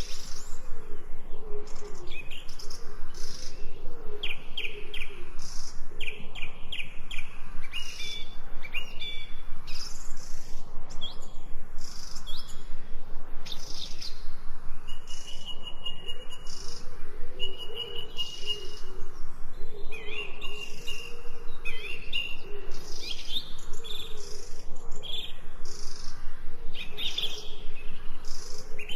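Birds chirping and singing, many calls overlapping: quick high trills and chirps, with a few longer whistled notes held steady in the middle stretch.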